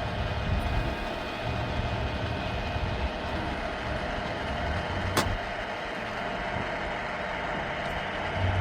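A vehicle engine idling with a steady hum, under an uneven low rumble of wind buffeting the microphone. A single sharp click comes about five seconds in.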